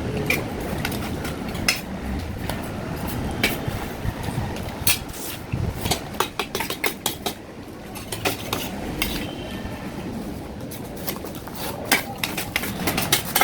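Cutlery clicking and scraping against a plate while eating, in scattered sharp clicks that come thickest about halfway through, over a steady low background hum.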